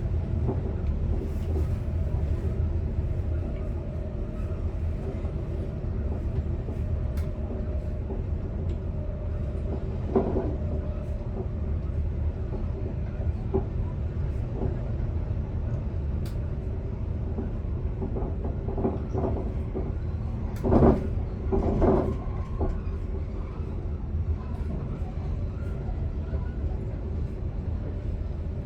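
Steady low rumble and hum inside the driver's cab of a Swedish commuter train, with scattered light clicks and two louder knocks about a second apart near the end.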